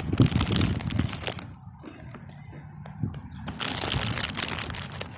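Crinkling and crunching of Lay's potato chips and their packet, in two spells with a quieter gap in the middle.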